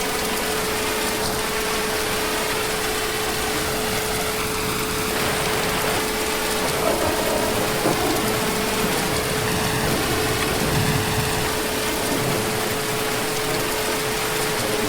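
Heavy rain falling in a dense, even hiss, with a thin steady tone running through it.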